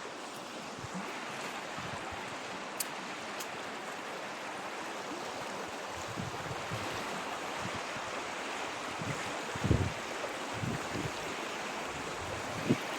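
River water running steadily, with a few low thumps near the end.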